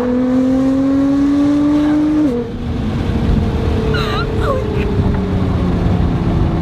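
Nissan GT-R's twin-turbo V6 through an Armytrix valvetronic exhaust, accelerating with a steadily rising note. There is a gear change just over two seconds in, then a slowly falling note as the car eases off.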